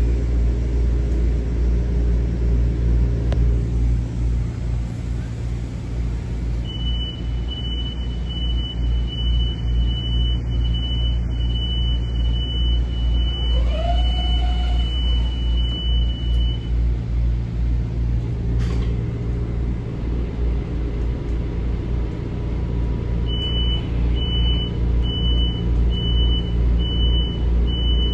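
Metro-North M7A electric train running, heard from inside the car: a steady low rumble of the train underway. About a quarter of the way in, a high electronic tone sounds steadily for about ten seconds, with a brief rising whine halfway through. Near the end the same tone comes back as a string of short beeps.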